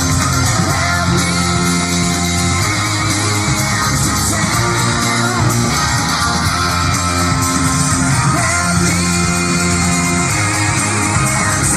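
Rock song playing: electric guitar, bass and drums with a sung vocal, loud and continuous.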